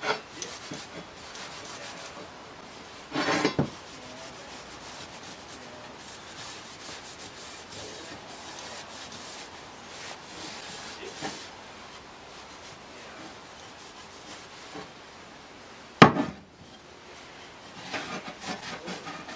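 Cloth wiping over a metal scythe blade with methylated spirits, a steady rubbing. A brief clatter about three seconds in and a single sharp knock near the end.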